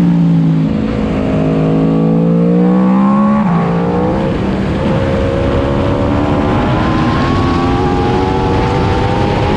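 Aprilia RSV4's V4 engine pulling hard under acceleration, its pitch climbing, with a quick upshift about three and a half seconds in and the engine pulling up through the next gear, over a rush of wind noise.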